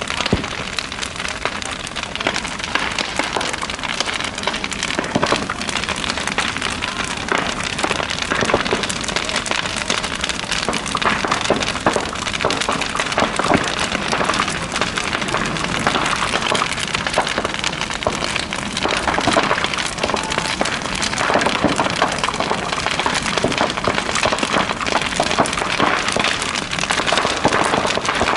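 Large bonfire burning hard, a dense, steady crackling and popping of burning wood over the rush of the flames.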